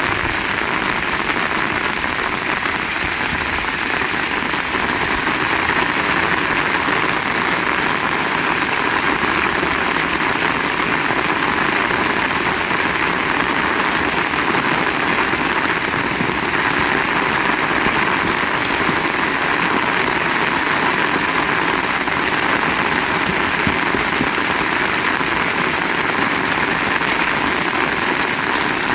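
Heavy rain falling steadily, a loud, even hiss that stays the same throughout.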